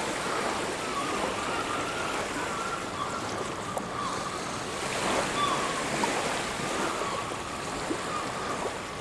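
Sea waves washing onto a beach in a steady rush, with short, faint bird calls scattered over it.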